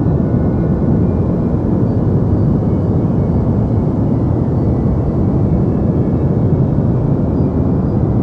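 Steady deep white noise: an even, unchanging rush with most of its weight in the low end and little hiss on top.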